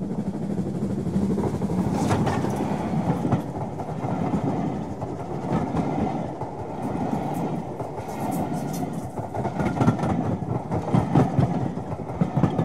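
Railway carriages rolling past: a steady rumble of wheels on track, with sharp clicks here and there as the wheels run over rail joints, coming thicker near the end.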